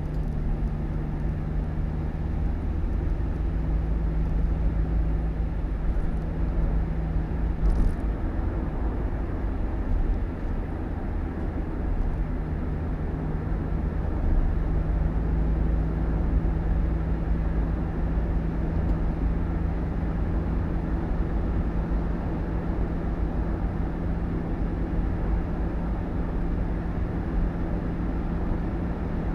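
Steady low rumble and hum of a road vehicle's engine and tyres running at an even pace.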